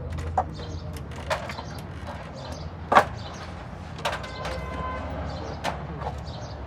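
Scattered clinks and knocks of metal tools and parts being handled in a car workshop, five or so separate strikes, the loudest about three seconds in, some with a short metallic ring, over a low steady hum.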